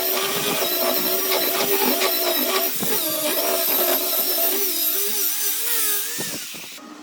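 Electric power tool running with a steady motor whine and hiss, its pitch wavering and dipping, then dying away near the end.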